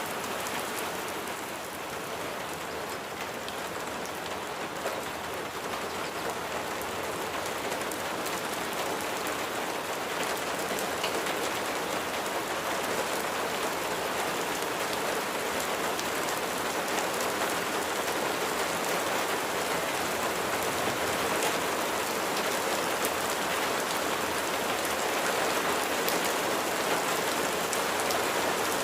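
Steady rain falling, with many individual raindrops ticking on a surface; it grows gradually a little louder.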